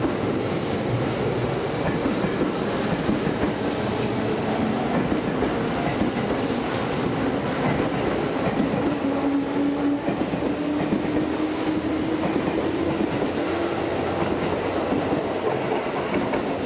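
Seibu 10000 series New Red Arrow limited-express train pulling out of the station and running past at close range, its wheels clattering over the rail joints. A thin tone rises slowly through the middle of the pass.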